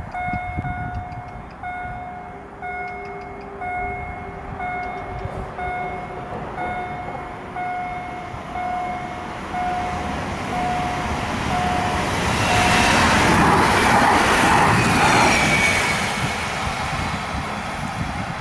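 A level-crossing warning signal sounds in evenly repeated beeps as a train approaches. The train then passes close by from about eleven seconds in, the rush of its wheels and bodywork swelling to a peak and easing off near the end.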